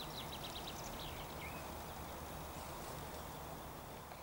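A small songbird singing a quick run of high chirps, ending in one lower falling note about a second and a half in, over a steady low outdoor rumble.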